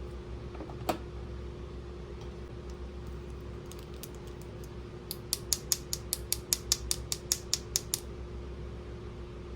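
One sharp click about a second in, then a rapid, even run of about fourteen sharp clicks, around five a second, for about three seconds, like a ratcheting plastic mechanism being worked.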